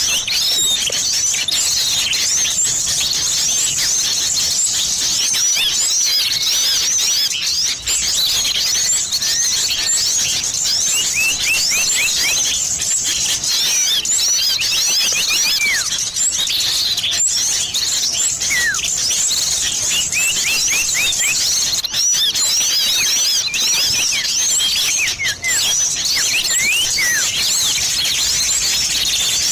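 A dense, unbroken chorus of many small birds chirping and twittering over one another, with short high chirps and rising and falling whistles packed together. It is a noisy small-bird lure mix that includes common iora calls.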